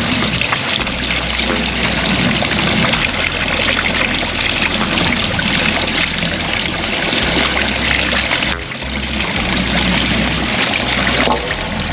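Valley stream water rushing steadily, broken by two abrupt cuts, one about two-thirds of the way through and one near the end.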